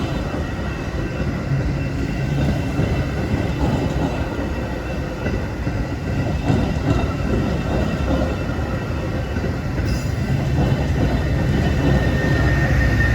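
Metra commuter train rolling past: a steady rumble of wheels on the rails, with a faint high wheel squeal.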